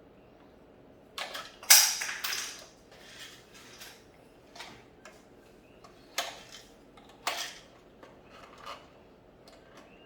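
Small hard plastic toy pieces and toy coins clattering and knocking as a plastic toy tomb is handled and pushed to close, in scattered bursts of clicks and clacks, the loudest about two seconds in.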